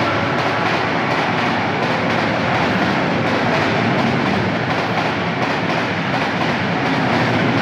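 Train running along the track at a steady loudness, without a break.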